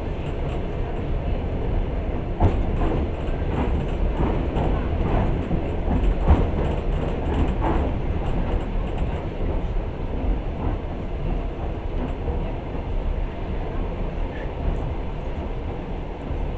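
Passenger train running along the line, heard from inside the carriage: a steady low rumble. From about two to eight seconds in comes a run of sharp wheel knocks over the rails.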